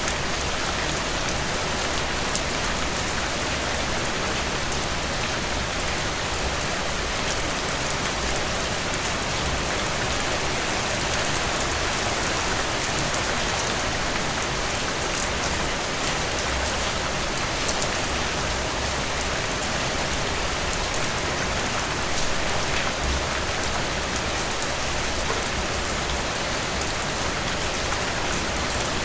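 Steady rainfall, a dense even hiss of rain on surfaces with many fine individual drop ticks.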